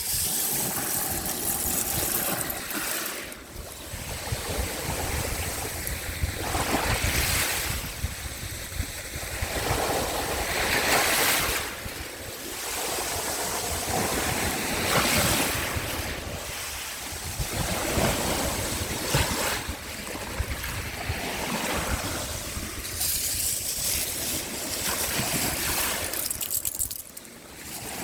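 Small sea waves washing onto the shore, swelling and falling back about every four seconds, with wind rumbling on the microphone.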